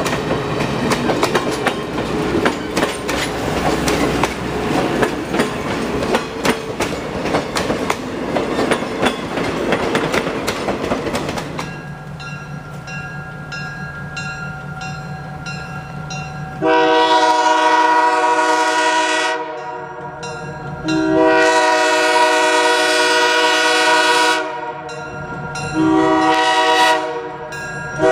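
Train rolling by, wheels clicking over the rail joints, for about the first twelve seconds, then a quieter steady diesel engine hum. About two-thirds of the way in, the Nathan K3L chime horn on EMD GP7 #573 sounds two long blasts, then a short one, and a fourth begins at the very end: the grade-crossing signal. The horn is really loud.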